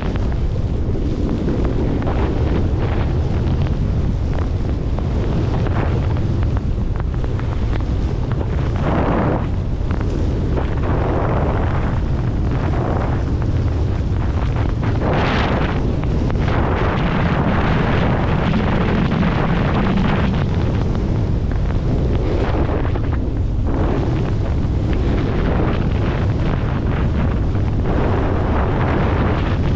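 Heavy wind buffeting the microphone: a loud, steady low rumble with a few brief, brighter rushes of hiss.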